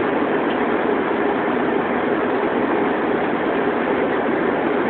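Steady cabin noise of a jet airliner in cruise flight: an even rushing of engines and airflow heard from inside the passenger cabin.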